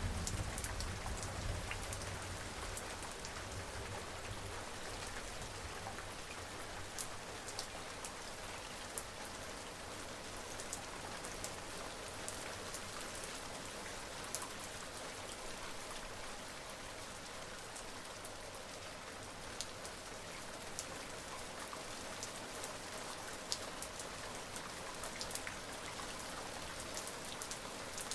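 Steady rain falling on surfaces, an even hiss with individual drops ticking sharply here and there. A low rumble of distant thunder dies away in the first two seconds.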